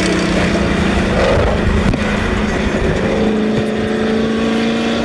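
Car engine revving hard and held at high revs, its pitch creeping slowly upward.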